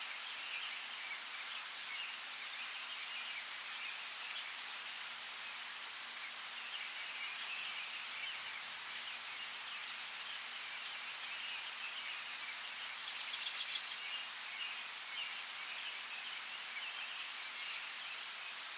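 Steady rain hiss with small birds chirping throughout. About two-thirds of the way through, one bird gives a quick run of about seven high chirps, the loudest sound here, and a couple of single drips tick sharply.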